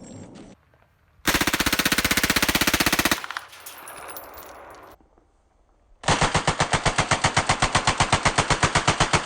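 Helicopter-mounted machine gun firing two automatic bursts. The first is rapid and lasts about two seconds. After a pause, a longer burst of evenly spaced shots starts about six seconds in and runs on past the end.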